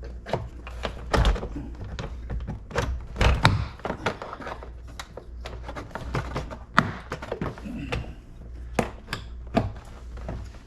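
Plastic retaining clips of a Jeep Liberty front door panel popping loose as the panel is pried off the door: a run of irregular snaps, clicks and thunks, heaviest about one and three seconds in.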